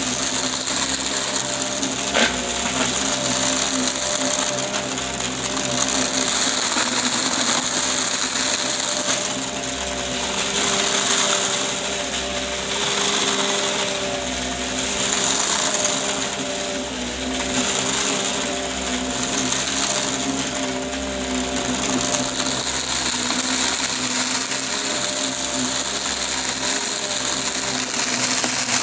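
Upright vacuum cleaner running steadily, its motor whine and suction rising and falling every few seconds as it is pushed and pulled, with a single click about two seconds in.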